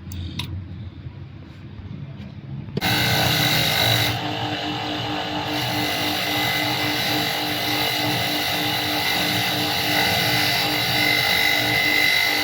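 A machine motor running steadily, with several constant whining tones and a faint regular pulse about three times a second, starting abruptly about three seconds in.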